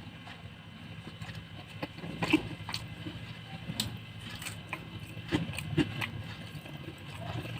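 A person eating: chewing and mouth sounds with scattered short clicks and smacks, over a low steady hum.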